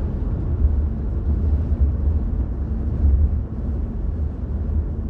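A deep, unsteady rumble that wavers in loudness, with hardly any hiss or higher sound.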